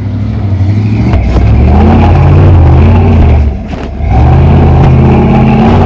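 Modified off-road 4x4 truck's engine revving hard under load, the pitch rising and falling, with a brief drop in revs about three and a half seconds in before it picks up again.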